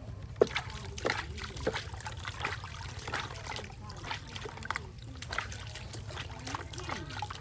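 Water trickling and splashing in irregular spurts while a small monkey is bathed.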